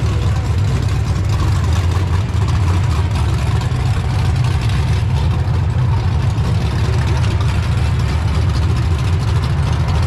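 Engine idling with a steady low rumble that neither rises nor falls.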